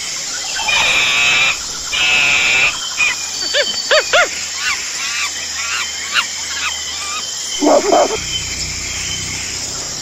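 Wild animal calls: two dense high chattering bursts near the start, then a run of short arched chirping and hooting calls, and a louder pitched call near the end, over a steady background hiss.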